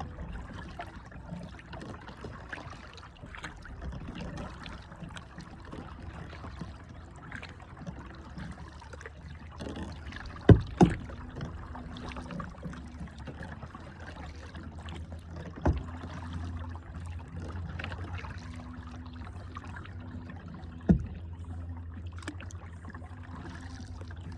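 Paddling a kayak: water trickling and splashing softly off the paddle, under a steady low hum. Four sharp knocks on the boat stand out, two close together about ten seconds in, then one each near the middle and later on.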